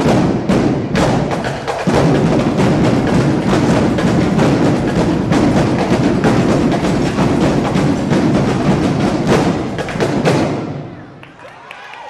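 Drum line of snare and bass drums playing a fast, loud cadence of dense strikes, stopping about ten and a half seconds in.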